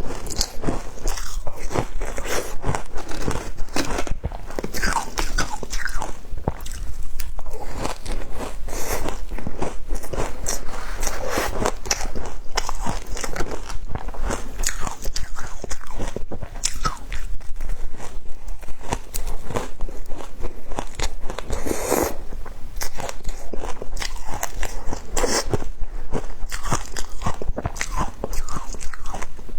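Frozen matcha ice being bitten and chewed: a continuous run of sharp, cracking crunches.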